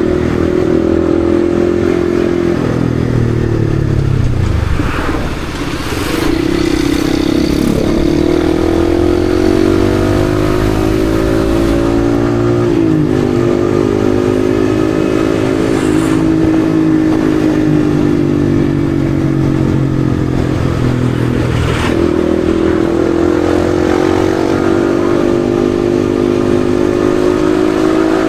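Yamaha XSR155's single-cylinder 155 cc engine heard from the bike while riding. The revs ease off briefly a few seconds in, then climb, with quick drops in pitch at two gear changes about halfway and about three quarters of the way through.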